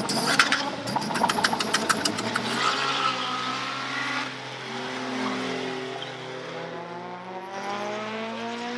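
Drag car engine crackling in a rapid, even stutter on the rev limiter, then launching and accelerating away down the strip. Its pitch climbs steadily, dipping at a gear change, and it grows fainter toward the end.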